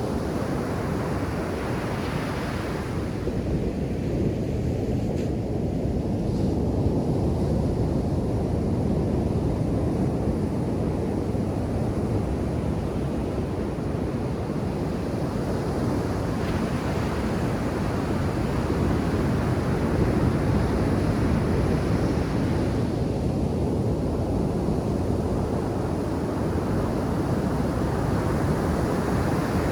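Ocean surf on a sandy beach: a continuous low rush of waves, with the hiss swelling as waves break about two seconds in, again in the middle, and near the end.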